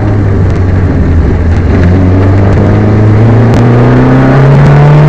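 Peugeot 205 rally car's engine running hard on a stage, heard loud from inside the car, its pitch holding steady and then rising a little about four seconds in. The car is misfiring on this stage.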